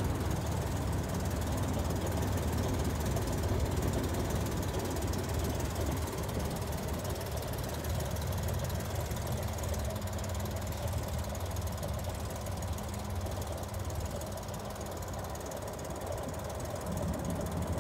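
1962 Chevrolet Corvair van's air-cooled flat-six engine running steadily.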